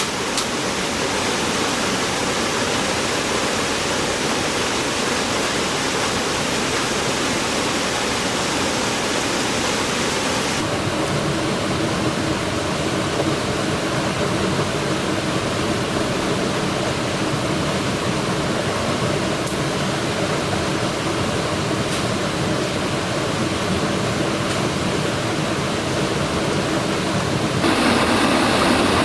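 Steady rushing water. Its sound changes abruptly about ten seconds in and again near the end.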